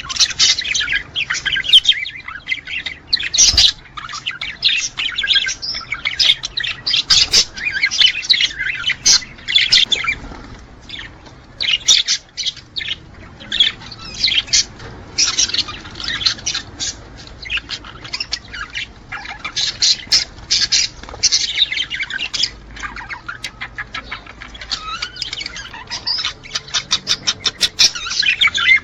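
Budgerigars chattering, warbling and squawking without pause, the kind of male budgie song used to bring a pair into breeding condition; near the end comes a fast run of clicks.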